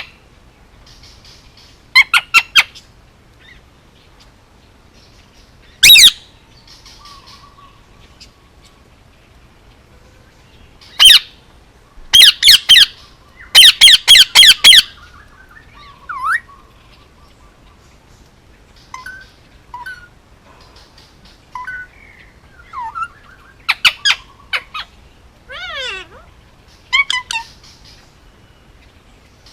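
Male Indian ringneck parakeet giving loud, harsh squawks, single ones and then a fast run of them, followed by softer short chirps and gliding whistles.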